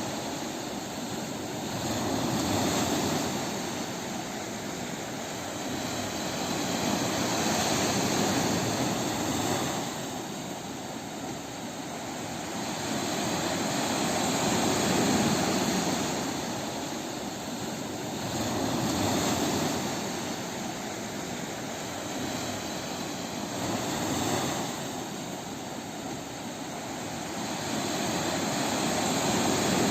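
Ocean waves breaking on a beach: a steady rush of surf that swells and fades about every five seconds.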